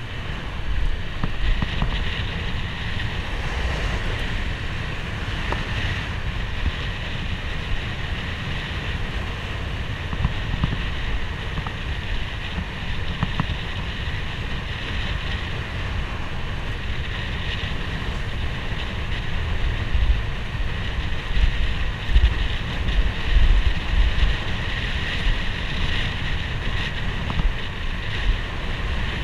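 Wind buffeting the microphone of a moving motorcycle, with the bike's engine and road noise underneath. The wind rumble grows louder about twenty seconds in.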